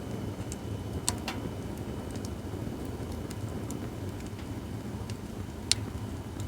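Acacia firewood burning in a campfire stand: a steady low rumble with a few sharp crackles and pops from the burning wood, the loudest pop about a second before the end.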